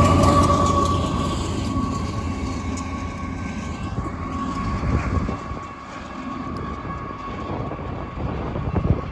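Union Pacific intermodal freight train rolling past, wheels clicking over the rail, with a steady high ringing tone above the rumble. The low heavy rumble drops away about a second in and the sound grows quieter.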